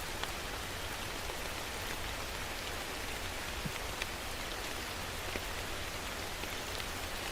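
Steady rain falling, an even hiss with a few sharper drop taps scattered through it.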